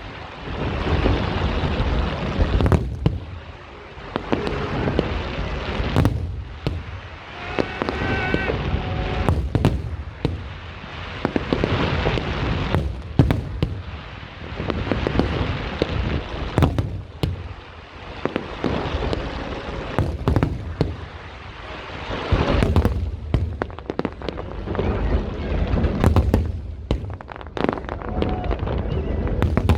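Fireworks display: a steady run of aerial bangs, one after another, over continuous crackling.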